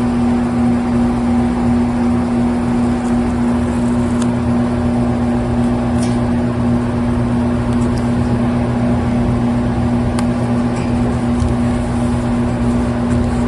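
Air-conditioner outdoor unit running: a steady, loud mechanical hum from the compressor and condenser fan, with a few faint ticks of handling.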